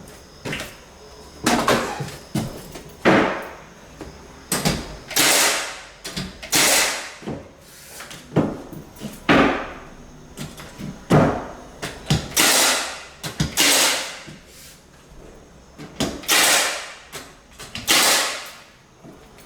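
Hardwood floorboards being knocked and fastened into place: irregular sharp knocks and thumps, roughly one every second or so, many trailing into a short hiss.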